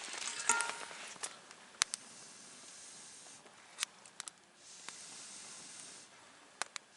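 Wood campfire burning: a steady hiss broken by sharp crackling pops every second or two, with a louder rush of hiss in the first second.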